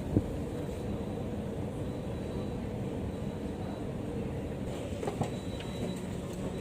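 Passenger train running with a steady low rumble. There is one sharp knock just after the start and a few faint clicks about five seconds in.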